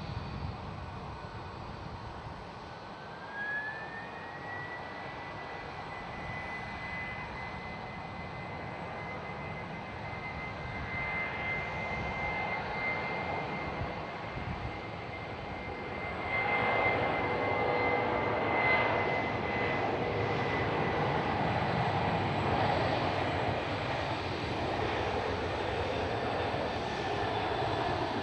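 Jet airliner engines with a high whine that rises in pitch a few seconds in and then holds steady, over a rushing engine noise that gets louder from about halfway through.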